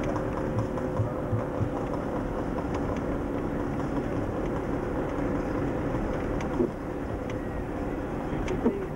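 Steady drone of a car's engine and road noise while driving, with a few short knocks in the second half.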